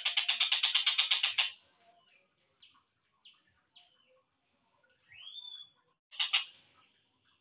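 Slowed-down recording of tengkek buto (a kingfisher) calls: a fast rattling trill of rapid even notes for about a second and a half, then faint scattered chirps, one rising whistled note about five seconds in, and a brief burst of the rattle just after six seconds.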